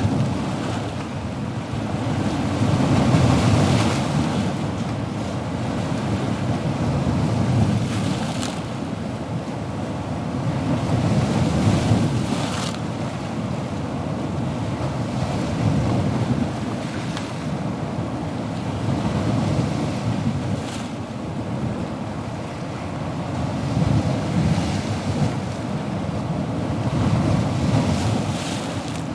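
Ocean waves breaking and washing on a shore, a continuous rushing surf that swells and eases every few seconds, with short brighter hisses as some waves break.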